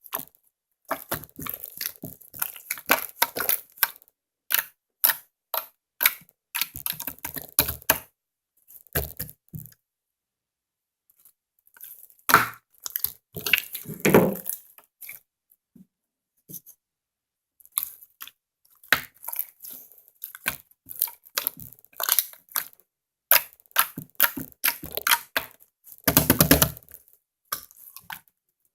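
Slime being squished and stretched by hand, giving runs of crackling, clicking pops of trapped air, in bursts with short pauses between them.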